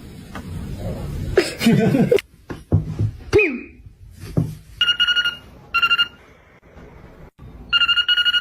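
Telephone-style trilling ring heard three times in the second half, two short rings and then a longer one. It is preceded by a few brief voice-like calls that slide in pitch.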